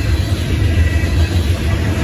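Freight cars of a manifest train, mostly gondolas, rolling past at a steady pace. Their wheels on the rails make a loud, continuous low rumble.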